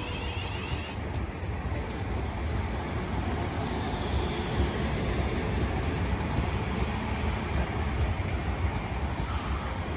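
London Northwestern Railway Class 350 Desiro electric multiple unit running along the platform as it pulls in to terminate, a steady rumble of wheels on the rails that eases off near the end.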